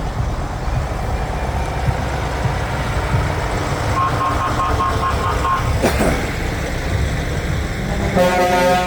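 Heavy truck engines rumbling as fire apparatus roll past, with a pulsed beeping tone about four seconds in. A loud horn blast comes in near the end.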